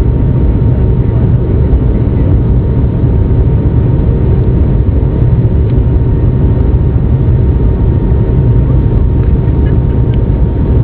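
Airliner's jet engines at takeoff power: a loud, steady rumble with a faint steady whine on top.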